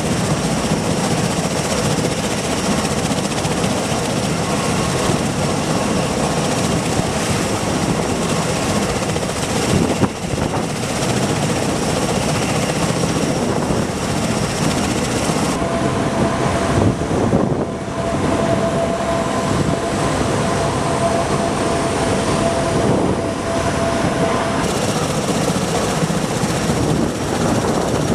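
MV-22B Osprey tiltrotor aircraft running, a loud, steady noise of rotors and turbine engines. For several seconds past the middle the sound changes and a steady whine stands out.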